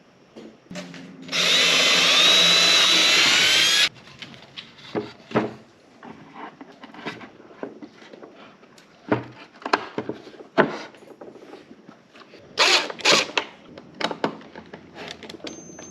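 Power drill running steadily for about two and a half seconds, its pitch wavering a little, then stopping, followed by scattered clicks and knocks of handling. Two short bursts come near the end.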